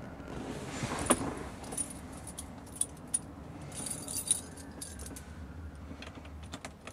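1972 Mini's 998 cc A-series four-cylinder engine running just after a cold start, idling a little high, with a light metallic jingling and ticking over the steady hum.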